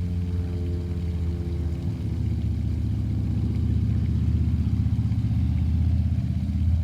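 Propeller airplane flying overhead: a loud, steady low engine drone with a fast pulsing throb, its higher tones fading over the first few seconds.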